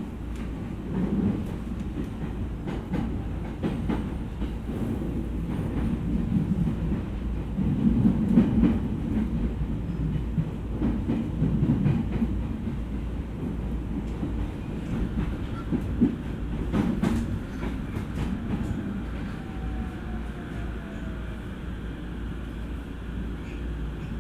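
Running noise inside an E231 series electric multiple-unit car as it slows on the approach to its terminus: wheels clattering over rail joints and points, with knocks that thin out in the second half and a faint falling whine near the end as the train eases toward a stop.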